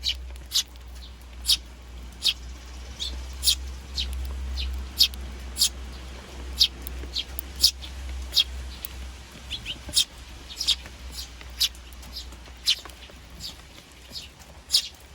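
Eurasian tree sparrows chirping: short, sharp, high chirps repeated irregularly, about one or two a second, over a low steady hum.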